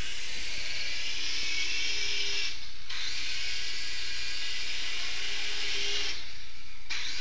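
Small electric rotor motors of a toy remote-control helicopter whirring at speed, a steady high-pitched buzz that eases off briefly twice.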